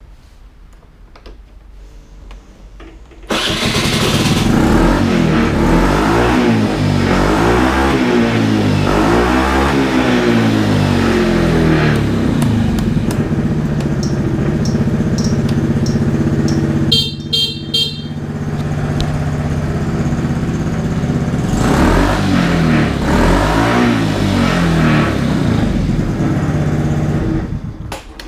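Suzuki Address V50G scooter's 49 cc four-stroke single, fitted with a replacement muffler, starts about three seconds in, is blipped through several rising and falling revs, settles to idle, and is revved again before being shut off near the end. Midway the scooter's horn sounds in a few short beeps.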